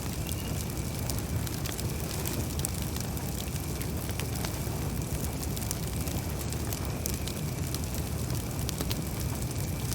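Campfire burning: many small sharp crackles and pops scattered over a steady low rumble of the flames.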